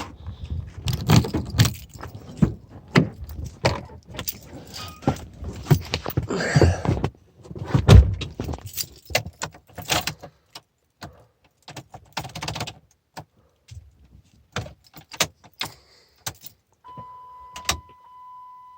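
Keys jangling with irregular clicks and knocks as the cold truck's door and controls are handled. About seventeen seconds in, a steady electronic tone starts and holds: the truck's chime with the key switched on, before the Cummins is cranked.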